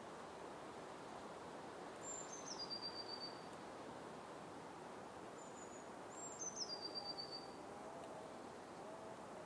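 A bird calling twice over a steady hiss of forest ambience: each call starts with a high note and drops in steps into a rapid trill, with a short high whistle between the two calls.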